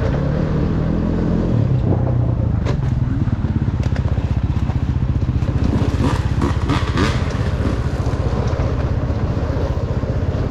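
Dirt bike engine running at a steady low speed, its note stepping up slightly about a second and a half in, with a scatter of sharp clicks and rattles in the middle.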